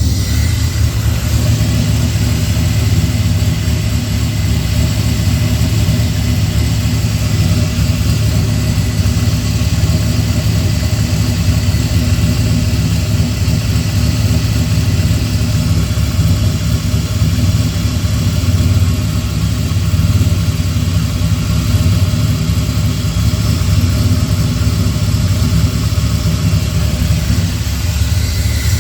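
Ram SRT-10's 8.3-litre Viper V10 idling steadily, still warming up after a cold start. It is firing on all cylinders.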